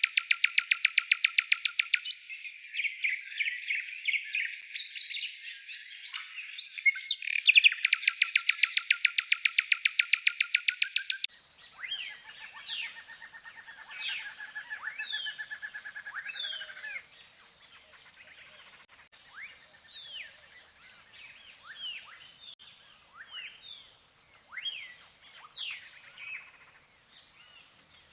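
Bird calls. A loud, fast, rapidly pulsed trill sounds twice with softer chattering between. After an abrupt change about eleven seconds in, quieter mixed birdsong follows, with short falling whistles and a long steady trill.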